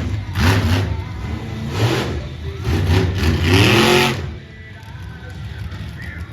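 Monster truck engine revving hard in repeated bursts, its pitch climbing to a loudest peak a few seconds in, then dropping off abruptly to a lower rumble.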